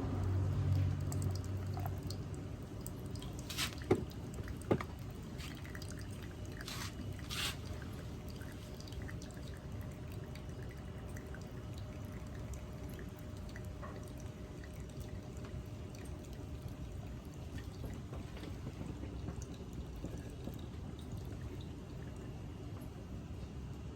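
Liquid dripping over a low, steady background, with a few sharp clicks between about four and seven seconds in.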